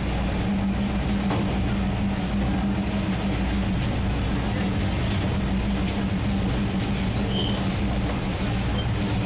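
Diesel train engine running with a steady low hum and rumble.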